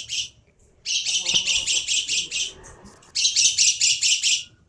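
Caged lovebird chattering in rapid bursts of high-pitched chirps, several a second. The tail of one burst comes at the start, then two more bursts of about a second and a half each, separated by short pauses.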